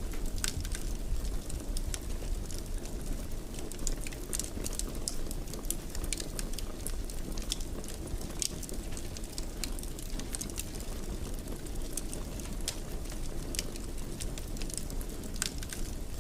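Fire in a fireplace crackling: irregular sharp pops and snaps over a steady low rumble of burning.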